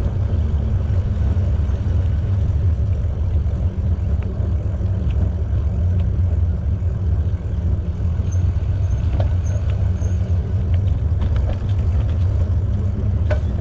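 Steady low rumble of wind on the camera microphone and tyres rolling while riding a bicycle, with four faint high chirps a little past the middle.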